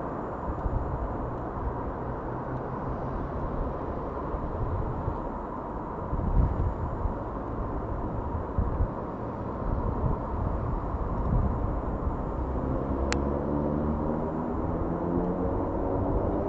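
Steady low outdoor rumble, with a single sharp click shortly after two-thirds of the way in. Near the end an engine's pitch rises steadily.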